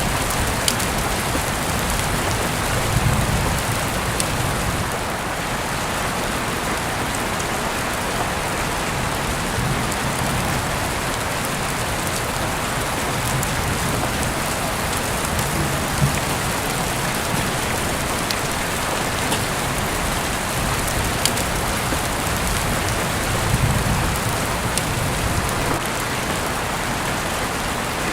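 Heavy rain falling steadily, with scattered sharper drop impacts and a few soft low swells.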